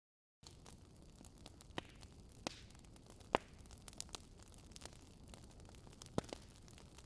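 Campfire burning: a steady low noise of flames with scattered sharp crackles and pops from the burning wood, the loudest pop a little over three seconds in. The fire sound begins about half a second in, after a moment of silence.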